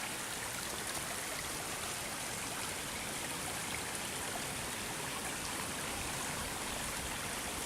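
Runoff creek swollen after heavy overnight rain, water rushing in a steady, even flow.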